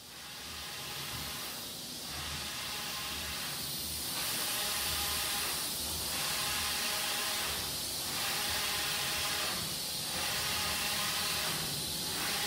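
Large-format inkjet printer running while printing onto a roll of paper: a steady hiss of fans with a low hum, and a regular swell about every two seconds as the print-head carriage sweeps back and forth.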